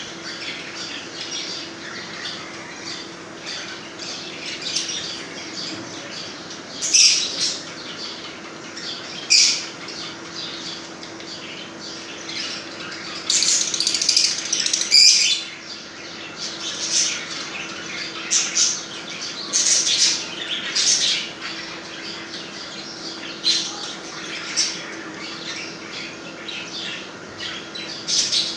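A group of small parrots squawking and chattering, with sharp calls breaking out over a constant background of chatter and the loudest flurry about halfway through. A faint steady hum lies underneath.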